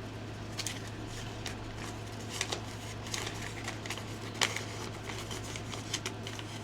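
Paper and card rustling with light irregular clicks, a sharper one about four seconds in, as the printed contents of a trading card deck box, such as the instruction manual, are handled and unpacked. A steady low electrical hum runs underneath.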